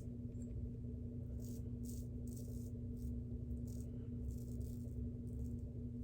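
Steady hum of a laundry machine running, with short, irregular rustling or rattling sounds over it every second or so.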